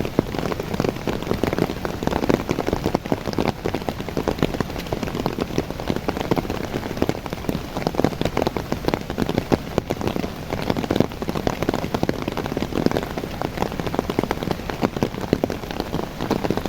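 Steady rain falling on the leaves of young coffee trees: a dense, even stream of drop hits with no let-up.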